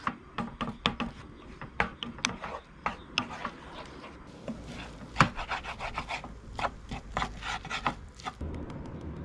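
Irregular scraping and rubbing on wood, with sharp clicks and knocks, that stops about a second before the end.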